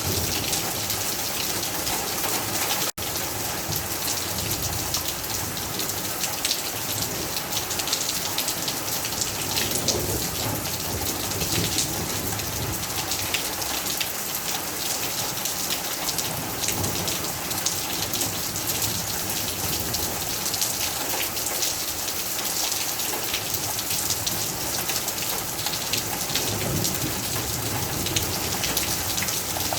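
Heavy rain falling, a steady dense patter of drops, with a split-second break about three seconds in.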